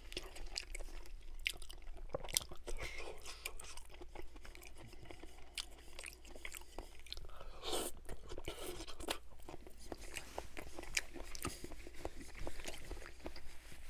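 Close-miked chewing and crunching of vegetables eaten by hand, with a steady run of small crisp crunches and wet mouth clicks.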